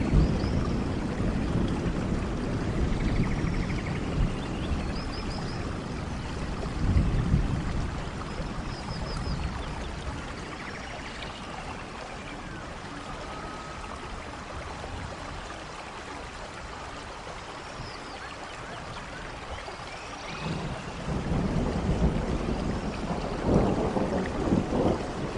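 Steady rain with low rolls of thunder, strongest at the start, about seven seconds in, and again through the last few seconds; a few faint high chirps sound over the rain.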